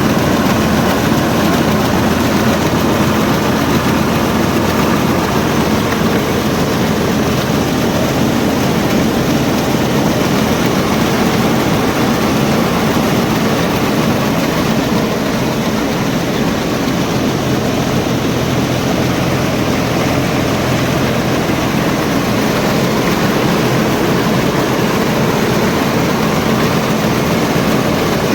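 Tractor engine running steadily while driving a paddy threshing machine: a loud, even mechanical din with a low engine hum and no break.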